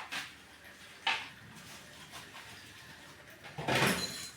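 Kitchen utensil clatter: a brief scrape or clink at the start, another about a second in, and a longer, louder scraping clatter near the end.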